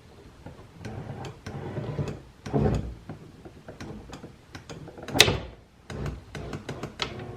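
Car door window glass knocking, rattling and scraping in a series of irregular clunks, with a couple of louder thumps, as it is pushed up while riding off its track: the broken window sliders (glides) no longer hold it in the channel.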